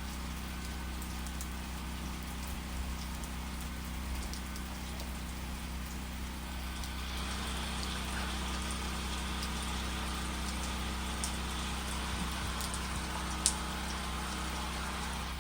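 Freezing rain falling: a steady patter with many scattered small ticks, and one sharper tick near the end.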